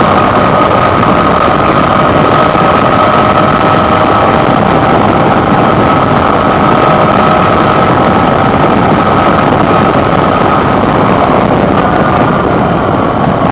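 Suzuki V-Strom 650's V-twin engine running at a steady cruising pace, heard from the handlebar under heavy wind rush. The engine note falls slightly near the end as the throttle eases off.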